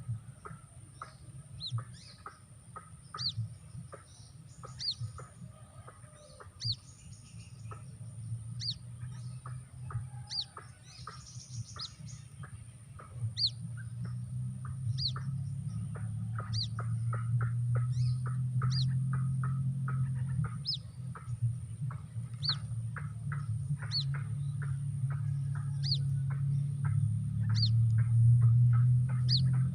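White-breasted waterhen (keruak) chick calling as a lure: a sharp high peep repeated about every second and a half, over quick clicking calls that come thicker in the second half. A low hum grows louder from about halfway.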